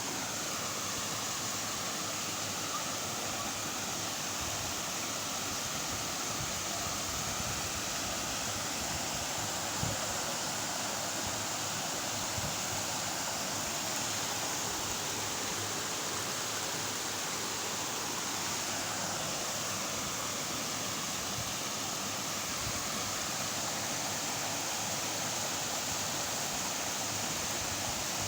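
Waterfall, with falling water rushing steadily and evenly.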